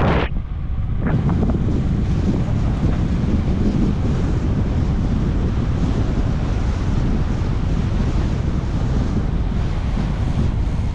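Wind buffeting the microphone, a steady rushing noise heaviest in the low end, as on a moving bike.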